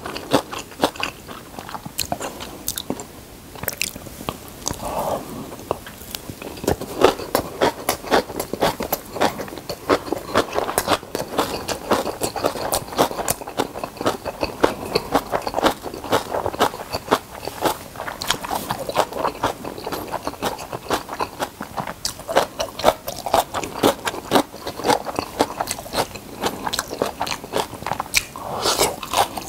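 Close-miked chewing of napa cabbage kimchi with spoonfuls of white rice: a dense run of crisp, wet crunches and mouth sounds, with no pauses.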